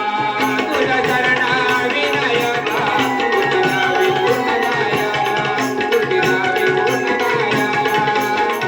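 Konkan naman folk music: a gan sung with hand-drum accompaniment and a steady, fast metallic beat on top.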